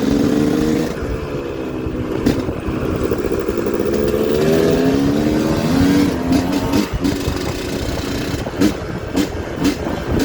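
Dirt bike engine revving, its pitch dropping and then climbing as the throttle opens, then a run of short, sharp throttle blips near the end.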